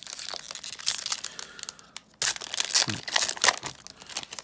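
Foil wrapper of a trading-card booster pack crinkling and tearing as it is ripped open, in two bouts of rustling about two seconds each.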